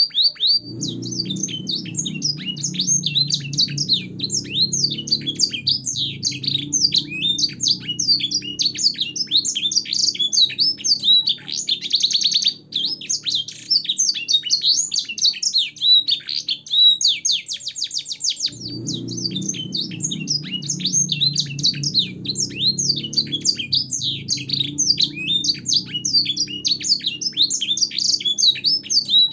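Domestic canary singing a long, unbroken song of fast trills and warbles, its phrases learned from black-throated canary and Edelsänger song. A low rumble sits under the song twice, for about five seconds each time.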